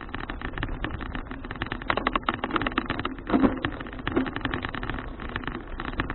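Riding noise of a folding bicycle picked up by an action camera: fast, irregular rattling over a steady rush of wind and road. A louder knock comes about halfway through.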